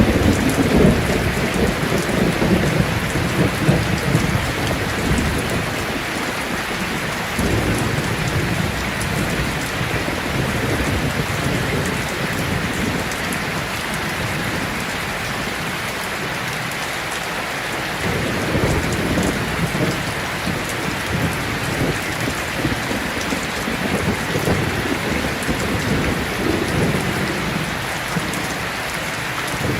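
Heavy rain falling steadily, with low rolling thunder rumbling through it, strongest near the start and swelling again a little after halfway and near the end.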